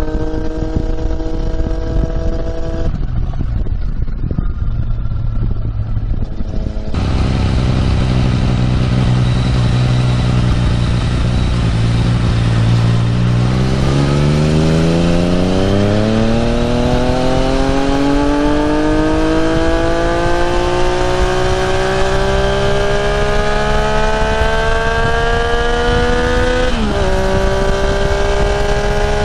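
Yamaha MT-09's three-cylinder engine, through an Akrapovic exhaust, on the move. It runs steadily, eases off for a few seconds, then pulls through a long acceleration with a smoothly rising pitch, broken by an upshift near the end, with a steady rushing hiss of wind and road underneath.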